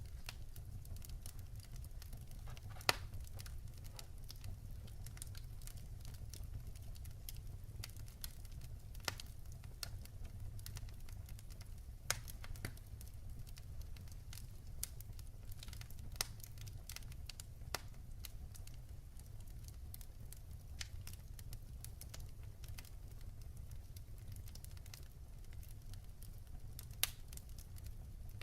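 Wood fire burning in a fireplace: a steady low rumble of flames with irregular sharp crackles and pops from the logs, several louder snaps scattered through.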